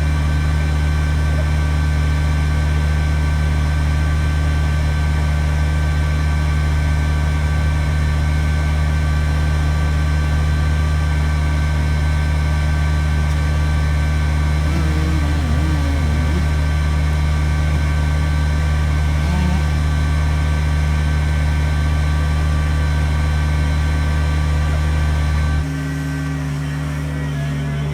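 Kubota BX23S sub-compact tractor's three-cylinder diesel engine running steadily at a constant throttle. Near the end its note drops and gets quieter.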